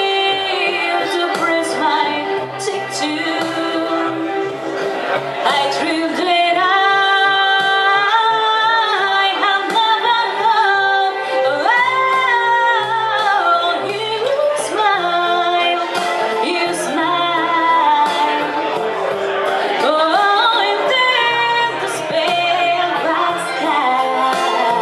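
Live Latin music from a duo: a woman singing held notes that glide up and down, over a steady instrumental accompaniment with a regular beat.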